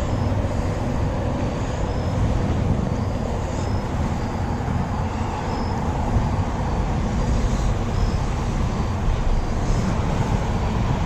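Steady rain noise on an action camera's microphone, a constant wash with a heavy low rumble and no distinct drops standing out.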